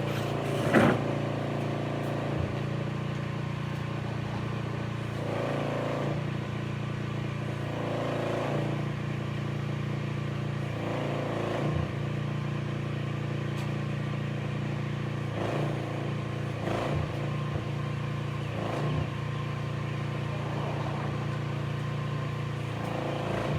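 Steady low mechanical hum, like a running engine or motor, with a few faint, scattered knocks and rustles.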